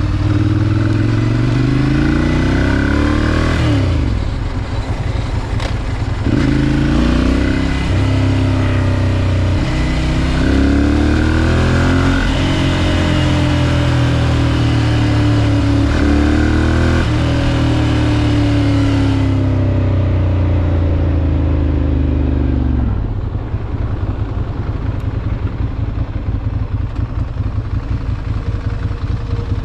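Ducati Monster 796's air-cooled L-twin engine pulling through the gears, its pitch climbing and then dropping at each of several upshifts. After about twenty seconds the engine is rolled off and winds down, and in the last few seconds it settles into a lumpy, pulsing idle.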